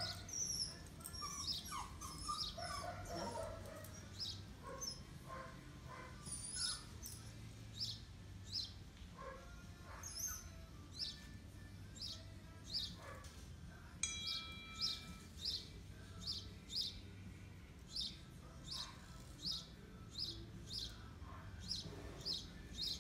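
A small bird chirping repeatedly in short, high chirps, coming in a quick regular series of about two or three a second from about halfway through.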